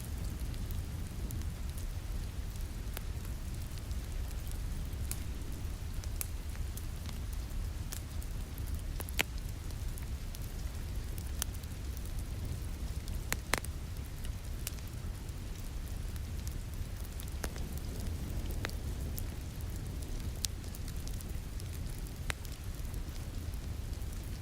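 Wood fire crackling with sharp pops, about one or two a second, over a steady rush of rain. The loudest pops come about nine and thirteen seconds in.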